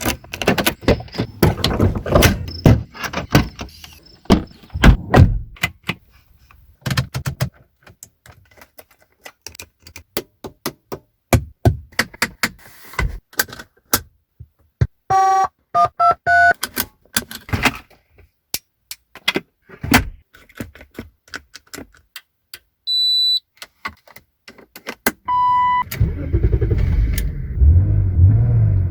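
A BMW E32 7 Series' door, lock and switch mechanisms clunking and clicking in quick succession. Around the middle comes a short run of electronic chimes of varying pitch, then single beeps, and near the end the engine starts and settles into a low idle.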